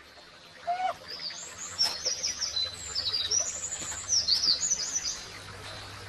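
A songbird singing: a run of quick, high chirping phrases that starts about a second in and stops about a second before the end.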